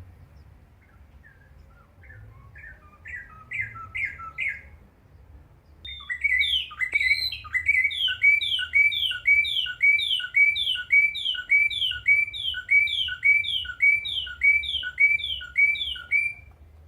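A bird singing: a quieter, quickening run of short notes, then from about six seconds in a loud series of repeated downslurred whistled notes, roughly two a second, which stops shortly before the end.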